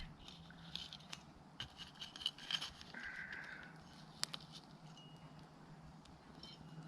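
Scattered light clicks, taps and scraping, with one short squeak-like tone about three seconds in, over a faint low hum.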